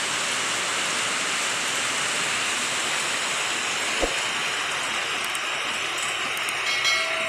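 Heavy rain falling steadily, an even hiss. A single click comes about four seconds in, and a few brief high tones near the end.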